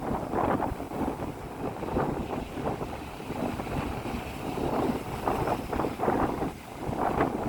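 Strong gusty wind buffeting the microphone over rough surf washing onto a beach.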